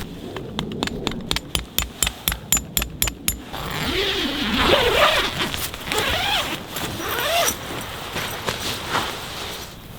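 Tent gear being handled: a quick, even run of about a dozen sharp clicks over some three seconds, then a few seconds of rasping, swishing noise that wavers up and down in pitch.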